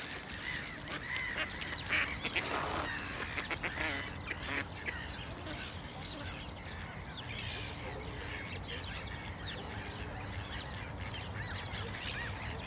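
A mixed group of birds squabbling over food, with many short overlapping calls that are thickest in the first few seconds and thin out after.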